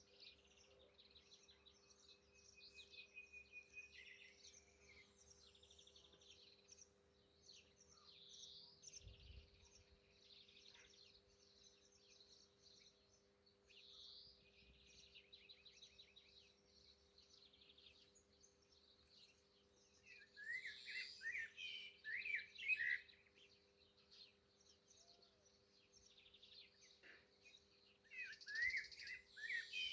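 Nightingale singing faintly: varied chirps, trills and repeated notes throughout, with louder runs of quick descending notes about twenty seconds in and again near the end. A faint steady hum lies underneath.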